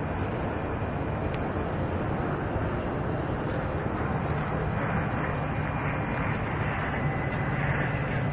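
Freight train of empty double-stack intermodal well cars rolling past, a steady rumble of wheels on rail.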